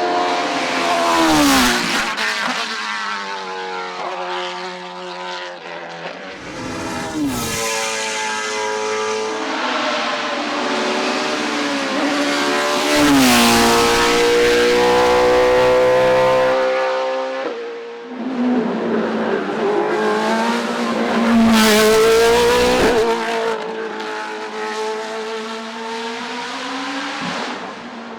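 Race cars on a hillclimb course accelerating hard at full throttle. The engine pitch climbs and then drops sharply at each upshift, several times over, loudest about halfway through and again later.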